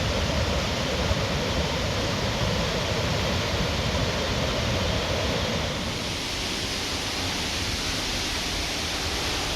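Waterfall rushing: a steady, loud noise of falling water that changes slightly in tone about six seconds in.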